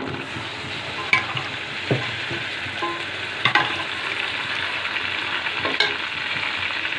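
Pre-boiled mutton pieces and browned onions sizzling in hot oil in a metal pot, stirred with a metal slotted spatula that knocks against the pan a few times with sharp clicks.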